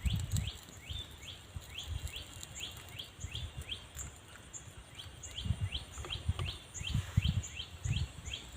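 A bird repeating a short rising chirp about three times a second, very regularly, with a second thin high note repeating alongside. Irregular low rumbles come and go under it, stronger in the second half.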